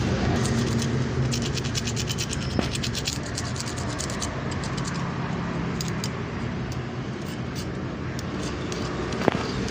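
Scratchy scrubbing of a motorcycle disc-brake caliper bracket being cleaned, in quick runs of strokes, with a single sharp knock near the end. A steady low rumble runs underneath.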